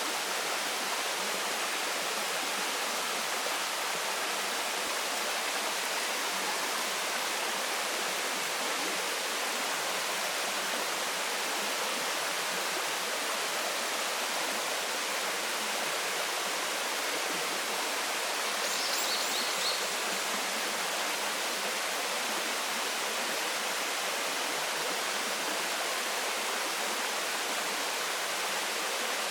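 Waterfall running: a steady, even rush of falling water. A brief burst of short high chirps sounds about two-thirds of the way through.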